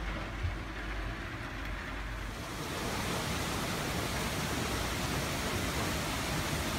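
Steady rain falling on tree foliage, an even hiss. For the first couple of seconds it is duller, with a low rumble underneath. About two and a half seconds in, it becomes a brighter, fuller hiss.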